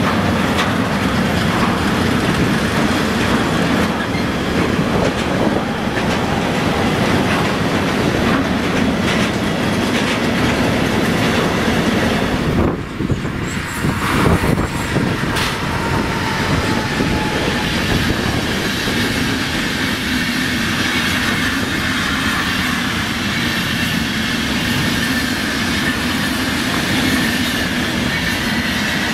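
A freight train of tank wagons rolls past with its wheels clicking over the rail joints. About thirteen seconds in, the sound cuts to an Intercity hauled by a red electric locomotive, passing at speed with a steady rolling rush of wheels on rail.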